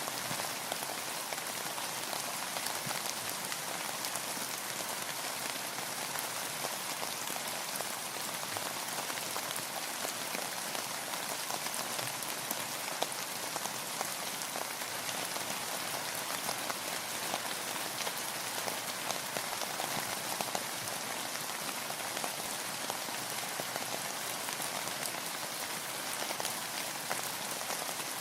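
Steady rainfall: an even hiss of rain with many fine, close drop ticks.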